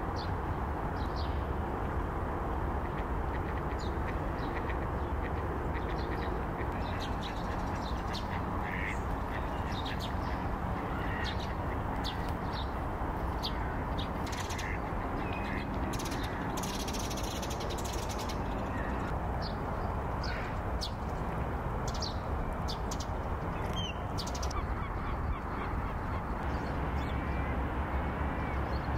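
Birds giving short, scattered calls over a steady low background rumble.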